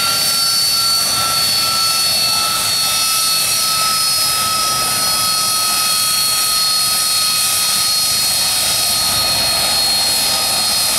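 Gas-turbine aircraft engine running: a steady high-pitched whine over a loud hiss, its pitch sinking slightly over several seconds.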